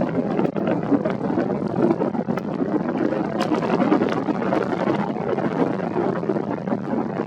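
Falcon 9 rocket's nine Merlin engines heard from afar in ascent: a steady, loud rumble broken by sharp crackles throughout.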